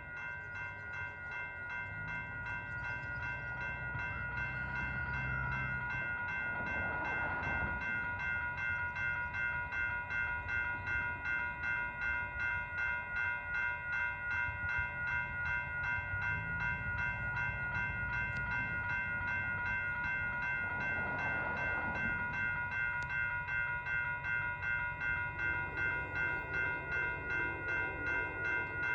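Railroad crossing warning bell ringing steadily, about two strokes a second, as an Amtrak passenger train approaches, its low rumble coming and going beneath and slowly growing louder; a low horn-like chord comes in near the end.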